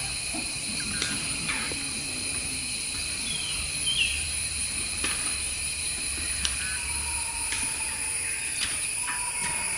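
Outdoor ambience: a steady high insect chorus with short bird chirps and a few sharp clicks scattered through it.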